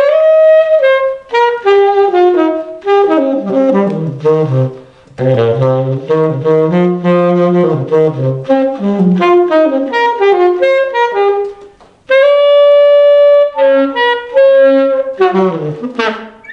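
Saxophone playing a fast, jazzy melody of quick runs, with one long held note about twelve seconds in and a quick falling run near the end.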